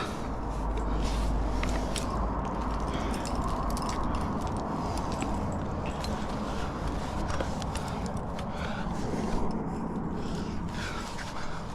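A climber moving on rock: scuffing and scraping with many small scattered clicks, over a steady rushing noise that is heaviest and lowest in the first few seconds.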